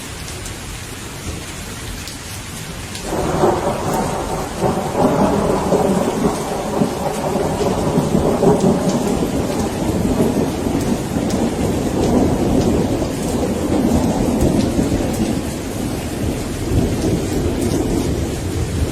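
Steady rain with a long roll of thunder that comes in suddenly about three seconds in and rolls on, easing off near the end.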